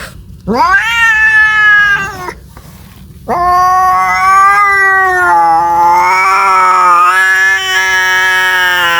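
Domestic cat caterwauling, the yowl of a cat calling for a mate: a short rising yowl about half a second in, then a long, drawn-out, wavering yowl from about three seconds in.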